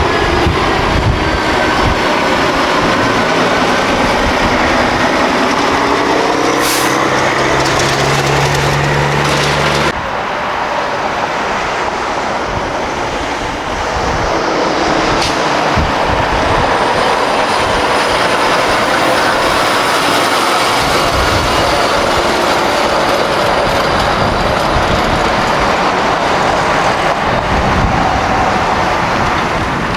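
Heavy road traffic: semi-trucks passing close by, with a loud steady roar of tyres and diesel engines. An engine tone climbs over the first few seconds, and the sound changes abruptly about ten seconds in.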